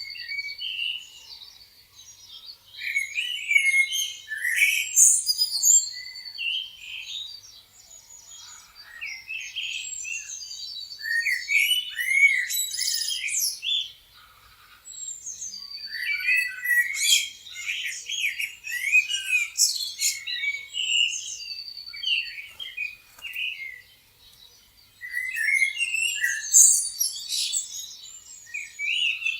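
Many small songbirds chirping and singing over one another: short chirps, rapid trills and whistled phrases. The chorus swells and eases in waves with brief lulls between.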